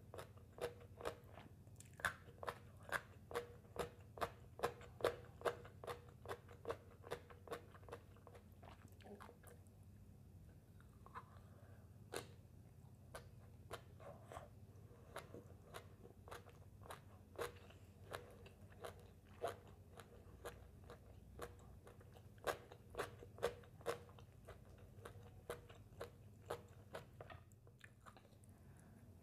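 Close-miked crunchy chewing of shredded green papaya salad, a regular run of crisp crunches about two a second. The chewing thins out in the middle and picks up again for a few seconds later on.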